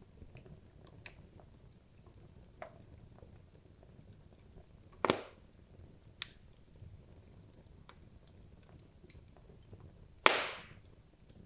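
Wood logs burning in a fireplace: a low steady flame rustle with scattered small crackles and two louder pops, one about five seconds in and one near the end, the second trailing off briefly.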